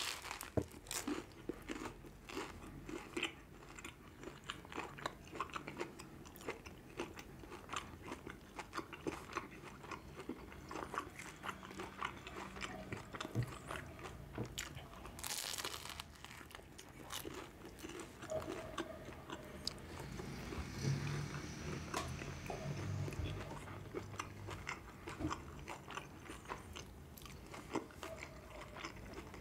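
Close-miked eating of a bread roll filled with spicy sausage and onion: a bite at the start, then chewing with many small wet clicks, and one louder crunch about halfway through.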